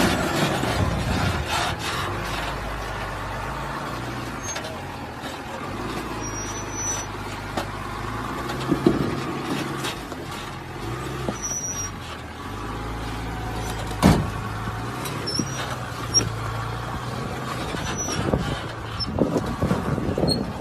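Diesel truck engine running at low revs, its pitch shifting in steps, with a few sharp knocks and brief high-pitched chirps.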